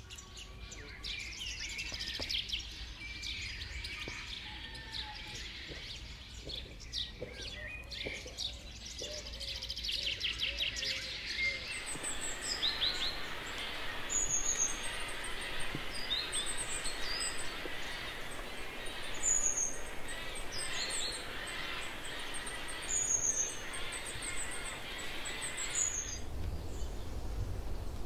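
Forest ambience with several birds singing and calling in quick chirps and trills. About twelve seconds in the sound changes to a steady dense hiss with short high chirps repeating over it, and near the end a low rumble comes in.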